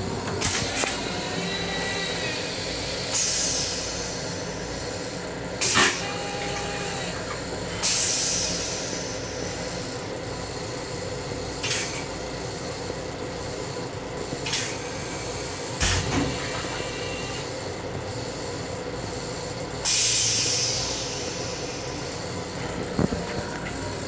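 Long Island Rail Road M7 electric railcar running, heard from inside its restroom: a steady rumble with scattered sharp knocks and rattles, and three short hisses.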